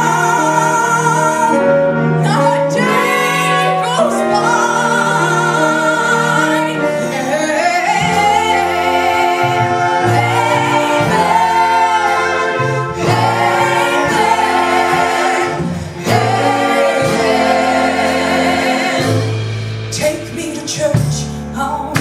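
A woman singing a musical theatre song, holding long notes with vibrato over an accompaniment with a moving bass line.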